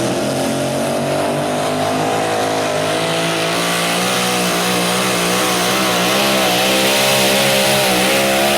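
Modified mini pulling tractor's engine running hard at high revs during a pull, a steady high-pitched note that starts wavering up and down about three seconds in.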